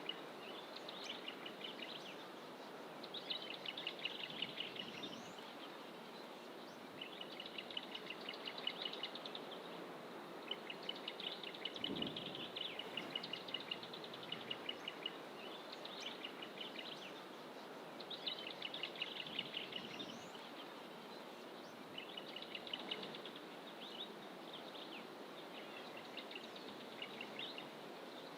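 A songbird repeating a short, rapid, pulsed trill phrase every few seconds, over a steady background rush of outdoor ambience.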